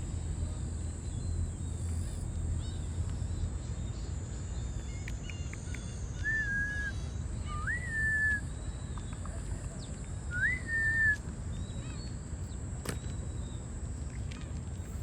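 Bird calls: three clear whistled notes, each rising then held level, with fainter short chirps between them, over a steady low rumble. A single sharp click comes near the end.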